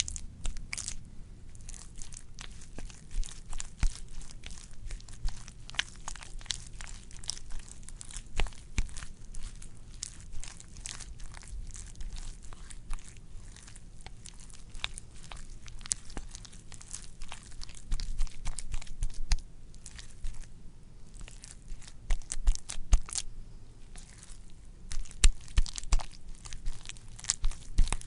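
Wet squishing and squelching: an unbroken, irregular run of crackly pops and smacks, with louder clusters in the second half.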